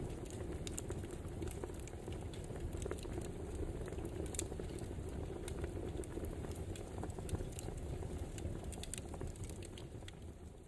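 Crackling wood fire: a steady low rush with scattered sharp pops and crackles, fading out near the end.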